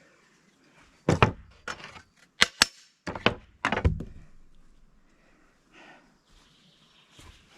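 A run of about six sharp wooden knocks and thuds over three seconds, unevenly spaced, then faint rustling as pieces of wood are handled in birdhouse building.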